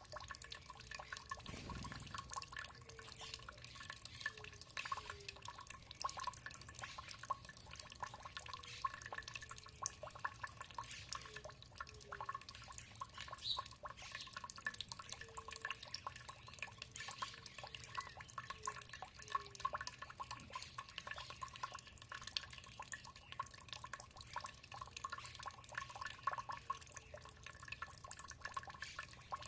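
Water dripping and trickling steadily: a dense, irregular patter of small drops. Runs of short low notes come and go in the background.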